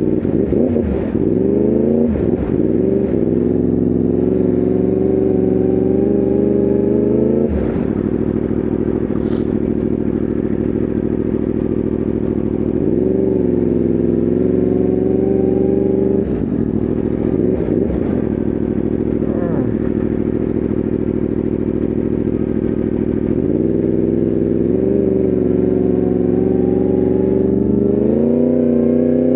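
Yamaha R1M's crossplane inline-four engine running under way, mostly at a steady pitch. The revs dip and pick up again several times, as with gear or throttle changes, and climb near the end.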